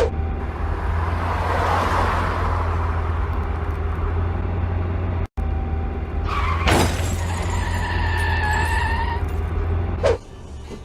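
Steady low rumble of a car driving, as picked up by a dashcam. About two-thirds of the way in there is a sharp noise, followed by a two-pitched whine held for about two seconds.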